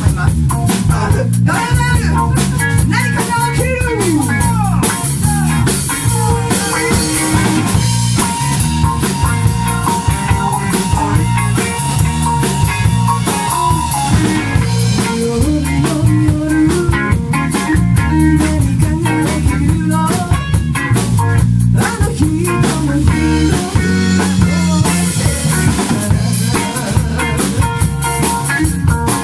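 Live band playing a Shōwa-era kayō pop song in studio rehearsal: a drum kit keeps a steady beat with rimshots under guitar and a melody line.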